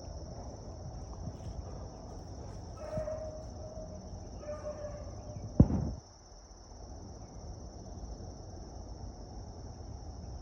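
Crickets trilling steadily in one high, even tone. Two short yelps from a beagle come about three and four and a half seconds in, and a single sharp knock just before the sixth second is the loudest thing heard.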